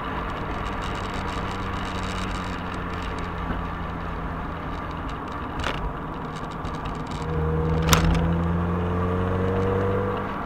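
Mazda MX-5 engine and tyre noise heard from inside the car on the move, with a steady engine hum. About seven seconds in, the engine grows louder and its pitch rises as it accelerates, then it eases off near the end. There are two short sharp knocks, the second one louder.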